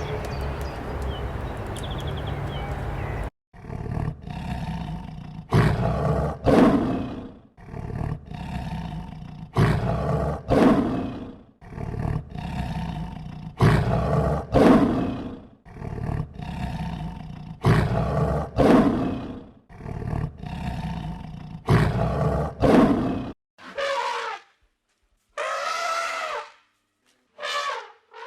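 Lion roaring repeatedly: a long series of loud, deep roars, one every second or two. It is preceded by a few seconds of steady background noise from another clip and followed by a few shorter, higher calls from another animal.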